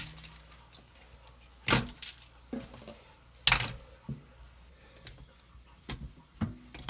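A few sharp knocks and clatters of plastic containers and a strainer being handled at a sink, the loudest about two seconds in and again about three and a half seconds in.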